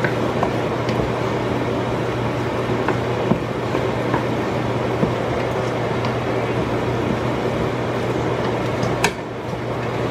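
Bell peppers, red onions and jalapeño sautéing in oil and butter in a pan: a steady noise with a low hum under it, scattered small pops, and a sharper click about nine seconds in.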